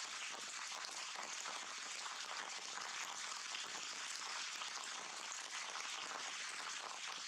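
Heavy rain falling, a steady dense hiss of many drops.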